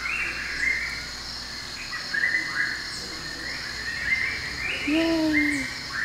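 Birds chirping in short repeated phrases over a steady, high-pitched insect drone.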